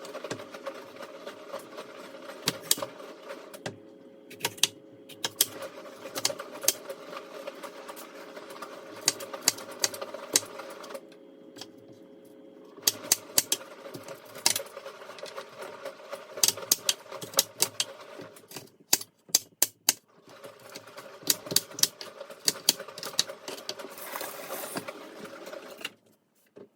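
Kitchen work sounds: irregular sharp clicks, taps and knocks of utensils and dishes over a steady hum, with a few short breaks where the hum drops out.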